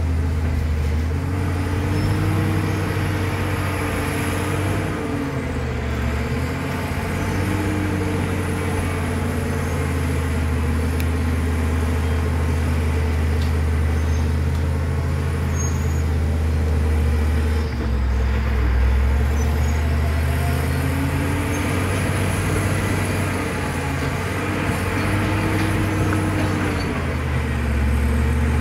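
Caterpillar D7 bulldozer's diesel engine running under changing load, its pitch rising and falling several times as the machine works, with a faint high whine that follows the engine.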